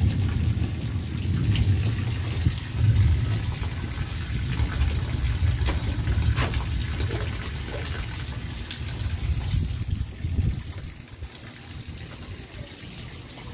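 Rain falling steadily on the lawn, pavement and street, with scattered drips, over a heavy low rumble that dies away about ten seconds in.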